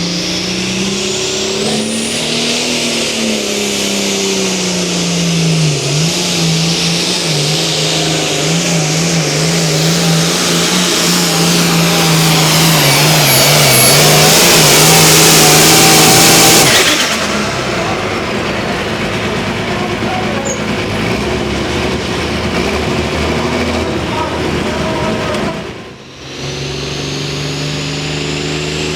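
Engine of a tractor-pull vehicle running hard under load, its pitch wavering and its loud hiss building until about two-thirds through, when it drops off sharply. After a brief break near the end, another engine runs steadily.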